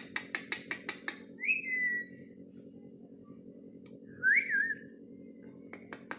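Pet ringneck parrot giving two short whistles, the second rising and wavering, after a quick run of sharp clicks about five a second.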